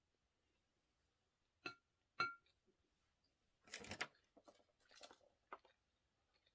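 Quiet eating sounds: two sharp clicks about half a second apart, each with a brief ring, then a few soft crackly mouth and handling noises and one more small click.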